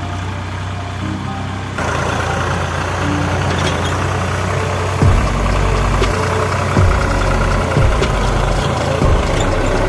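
Tractor engine running steadily. It gets louder about two seconds in, and in the second half there are repeated low thumps about every second or so.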